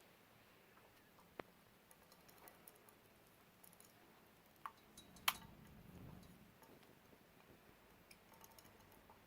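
Near silence with a few faint, sharp clicks or taps, the loudest about five seconds in.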